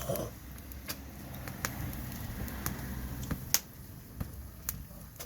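Firewood burning in a bonfire, crackling with sharp, irregular pops over a low steady rumble.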